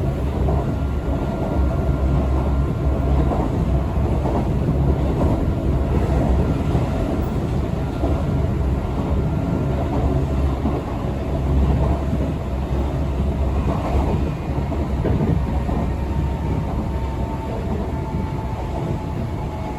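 Electric commuter train on the Tobu Skytree Line running between stations, heard from inside the car: a steady low rumble of wheels on rail with faint thin whining tones over it.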